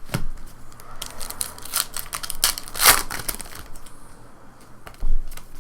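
Trading cards being handled: a run of quick clicks and papery rustles as cards are flicked and slid through a stack, with a dull thump near the end.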